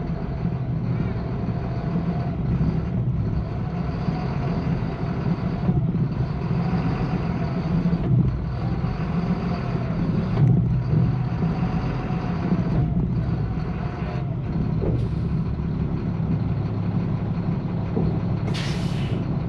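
Truck engine running steadily, with a short burst of hissing air near the end.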